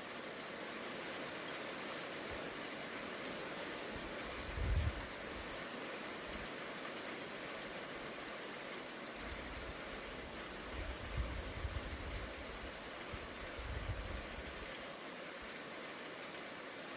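Steady hiss of falling rain during a thunderstorm, with brief low rumbles about five seconds in and again in the middle of the stretch.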